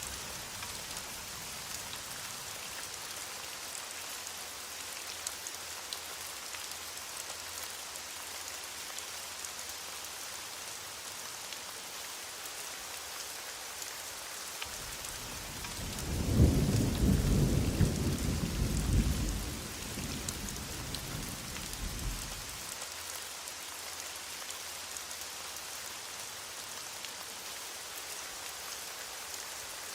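Heavy rain falling as a steady hiss, with a loud low rumble of thunder starting about sixteen seconds in and dying away over some six seconds.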